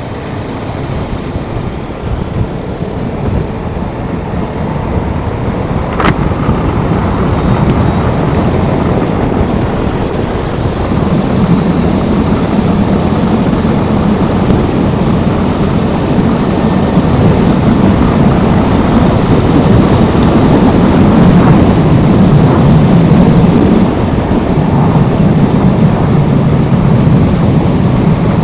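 Wind and road noise rushing over the helmet microphone of a moving motorcycle, growing louder over the first ten seconds or so as the bike picks up speed. A single sharp click about six seconds in.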